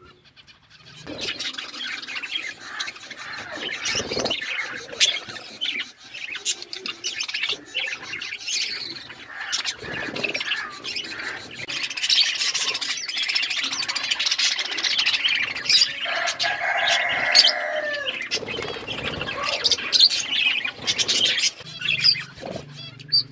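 Several budgies chirping and chattering without a break, with one longer, lower call about two-thirds of the way through.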